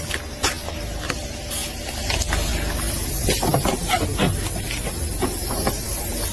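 An object crushed under a car tyre: a run of sharp cracks and crunches, with a high hiss coming in about halfway through.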